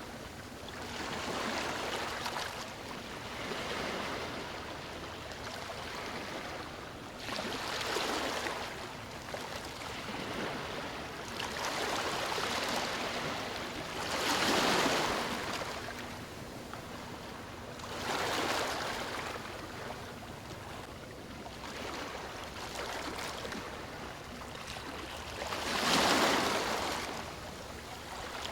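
Sea waves breaking and washing up a beach, coming in irregular surges every few seconds with quieter hiss between them; the biggest wave comes near the end.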